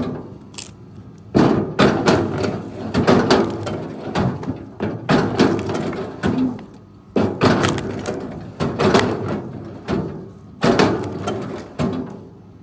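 Wood cracking and thudding in four rough bursts of quick knocks, each lasting one to three seconds, with short lulls between.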